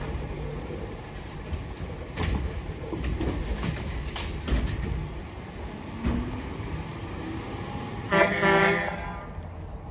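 Garbage truck engine running with scattered knocks and clatter. A loud horn honk of under a second comes about eight seconds in.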